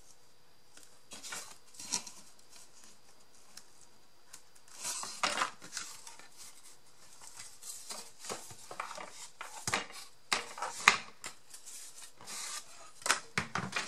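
Chipboard and paper craft pieces being handled at a work table: scattered short rustles, scrapes and light knocks.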